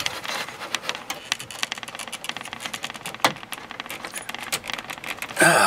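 Small plastic clicks and rattles of an electrical connector being wiggled and pried at by hand, with one sharper knock about three seconds in. The plug is a stubborn one on a Ford F-150 headlight switch wiring harness.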